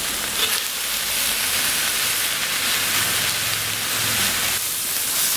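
Crucian carp, chopped chili and scallion greens frying in a hot iron wok: a steady sizzling hiss.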